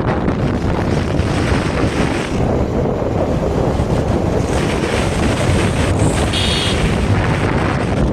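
Wind buffeting the microphone of a moving rider: a loud, steady rumbling rush.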